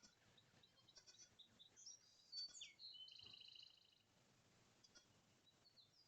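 Songbirds chirping and calling, faint: short high chirps, a few swooping notes, then a rapid buzzy trill about three seconds in.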